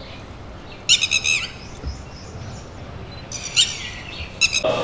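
Birds calling: clusters of short, high chirps that slide down in pitch, about a second in, again a little past three seconds, and once more near the end.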